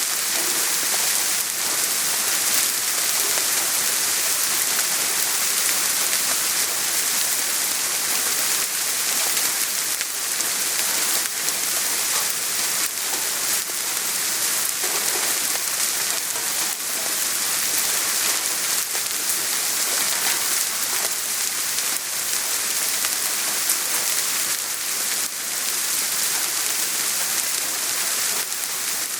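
Steady soft rain falling, a dense even hiss with fine patter of individual drops.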